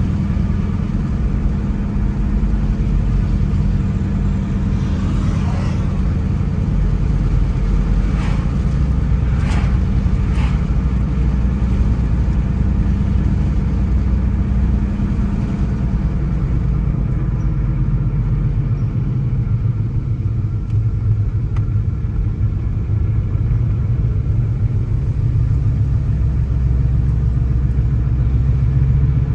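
Car engine and road noise while driving. The engine's low hum drops in pitch a little past the middle and climbs again toward the end. A few brief higher noises come about a third of the way in.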